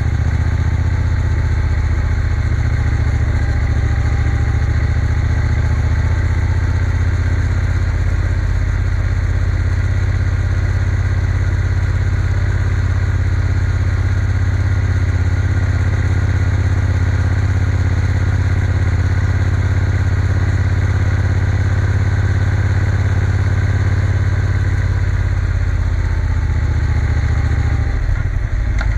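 Triumph Bonneville T120's parallel-twin engine running steadily while riding along, with a brief change in its note near the end.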